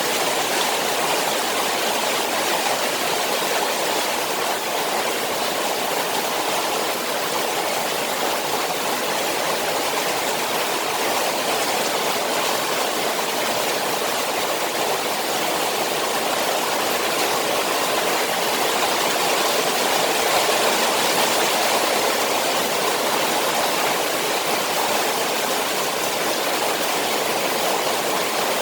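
Rain falling on a koi pond, a steady, unbroken rush of water.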